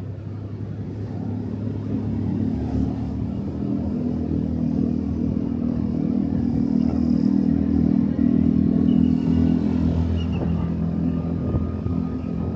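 Motorcycle engine running under way, its steady note growing louder over the first several seconds, then easing a little near the end.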